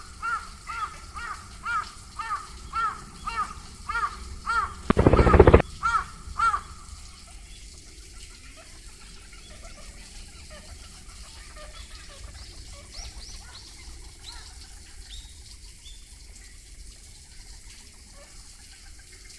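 Duck calling in a rapid, even series of loud calls, two to three a second, for the first six seconds or so. About five seconds in there is a loud burst of splashing and wing-flapping. After that only faint, high bird chirps are heard.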